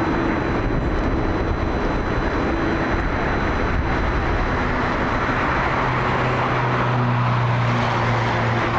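A Boeing 787 Dreamliner's twin jet engines running at high power: a steady, loud rushing noise, with a low hum that grows stronger in the last few seconds.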